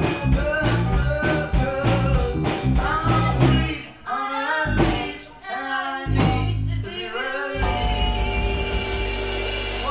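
Gypsy rock band playing live with singing. About three and a half seconds in the steady drumming drops out, leaving a few accented full-band hits, and near the end the band holds one long chord.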